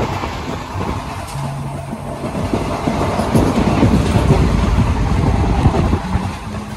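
Passenger train running at speed, heard from an open coach door: a steady low rumble with the wheels clattering over the rail joints. The clatter grows heavier about halfway through.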